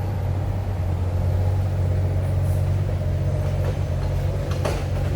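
Road traffic along a city street, with a heavy vehicle's engine running steadily close by.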